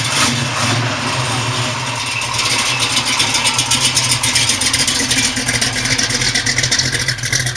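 Car engine running, with a steady rapid firing beat that grows faster and a little louder about two and a half seconds in.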